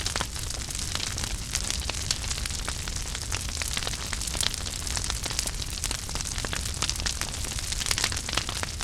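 Wood fire burning in a fireplace, crackling steadily with many small sharp pops over a low rumble of the flames.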